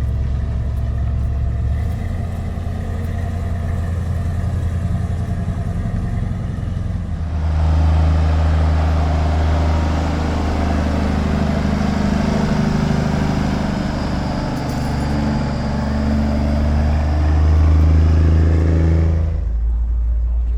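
Vehicle engines running steadily. About seven seconds in, a louder engine comes in and keeps going for about twelve seconds, then drops away shortly before the end.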